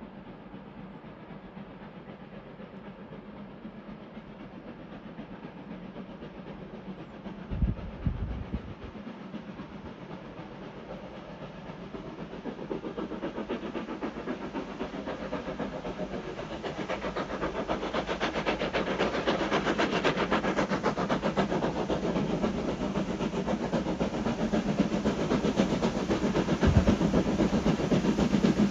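Q6 steam locomotive climbing the grade with a train, its exhaust beats growing steadily louder as it approaches. A brief low bump about a third of the way in.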